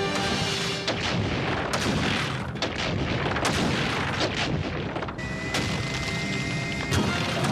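Stone-breaking sound effect: a dense, continuous run of cracking and crashing rock with many sharp impacts. A thin, steady high tone sounds faintly for about two seconds in the second half.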